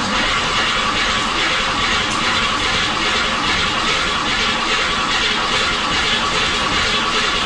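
Starter motor cranking a new Ford 302 small-block V8 with the ignition disabled, steady and loud, turning the engine over to build oil pressure before its first start.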